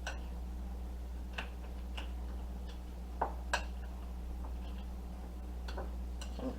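A spoon clicking against a mixing bowl at irregular moments while mashed potato filling is stirred, with two louder clinks close together about three and a half seconds in, over a steady low hum.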